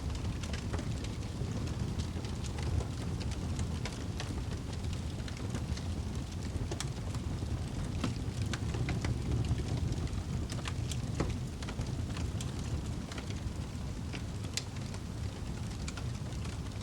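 Wood fire in a fireplace burning with a steady low roar, with frequent irregular crackles and pops.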